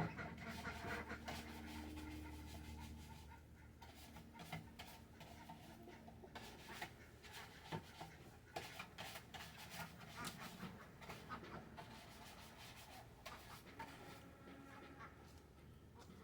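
Faint backyard ducks quacking softly now and then, with scattered light taps and clicks.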